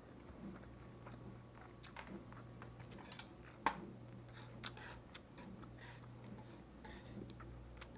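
Close-up chewing of a bulgogi lettuce wrap: soft crisp crunches and wet mouth clicks, with one sharper click a little under halfway through.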